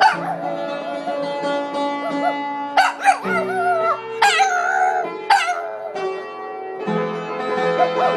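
A dog howling in several wavering, drawn-out notes over background music.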